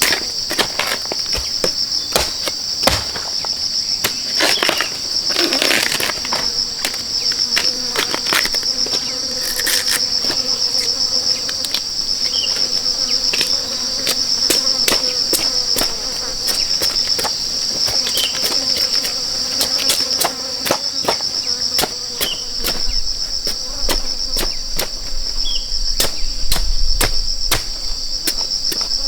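Steady, high-pitched buzzing insect chorus, with irregular sharp knocks and taps throughout.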